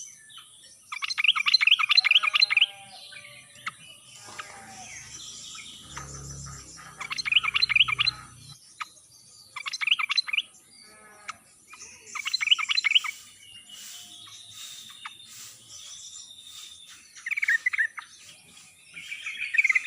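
Yellow-vented bulbul (trucuk) song: about six short, bubbly bursts of rapid chattering notes, repeated every few seconds.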